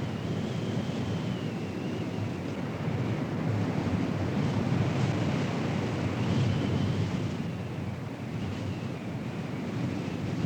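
Strong, gusty storm wind buffeting an outdoor camera's microphone: a rushing rumble that swells about three seconds in and eases again near the end, with a faint wavering high tone above it.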